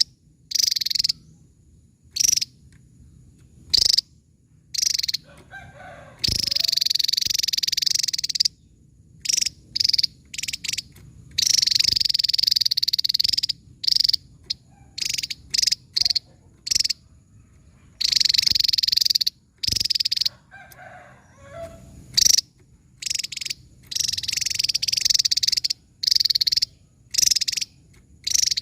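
Javan tesia singing: short, sharp high-pitched notes alternating with dense bursts of rapid high trilling, each burst lasting a second or two.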